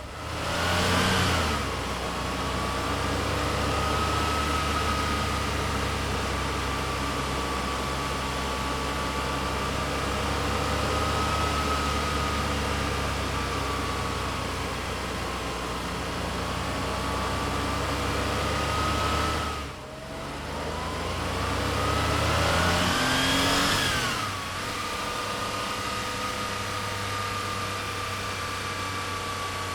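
Air-cooled 3.2-litre flat-six of a 1976 Porsche 911S running under way, its note holding fairly steady with slow small changes in pitch. It revs up briefly right at the start and again about three quarters of the way through, where the pitch climbs and then drops sharply.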